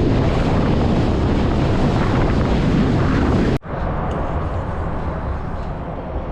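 Wind buffeting the microphone over a boat running underway, its motor a low hum under the rush. About three and a half seconds in the sound cuts off abruptly to a quieter, steady rumble.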